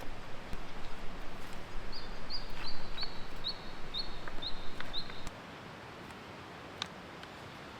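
A small bird calling a run of about eight short, high, evenly spaced notes, each slightly falling, over rustling noise that stops suddenly about five seconds in.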